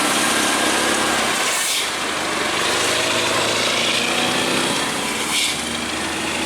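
Road traffic: vehicle engines running steadily, with two brief passing sweeps about two and five seconds in.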